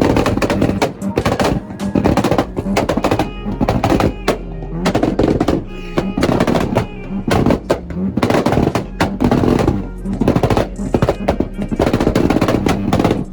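Mazda RX-7 and Toyota Supra Mk4 engines held on two-step launch limiters, a fast, loud chain of exhaust pops and bangs, with background music.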